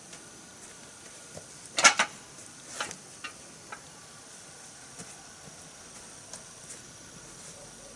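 A few sharp knocks and clatters of hard objects, the loudest a quick group of two or three about two seconds in and another near three seconds, then scattered lighter ticks over a faint steady hiss. No chainsaw is running.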